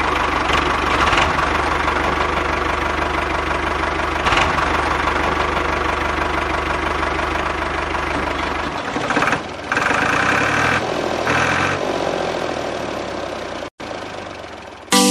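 Small motor of a DIY mini tractor running steadily; about nine seconds in its low hum drops away and the sound thins out, fading toward the end. A short burst of music starts right at the end.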